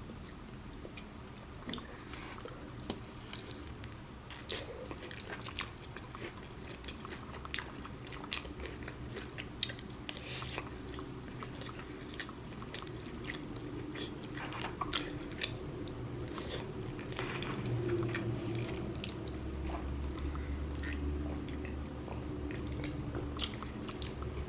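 A person biting and chewing breaded chicken katsu dipped in gravy close to the microphone, with many short moist clicks and crunches of eating scattered throughout. A steady low hum comes in during the last few seconds.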